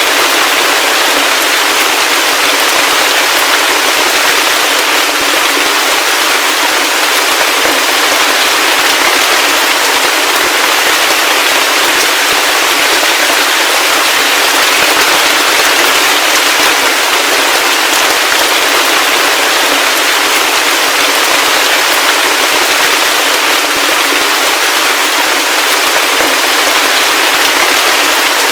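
Heavy rain falling steadily, a dense, even crackle of countless drops with no low rumble.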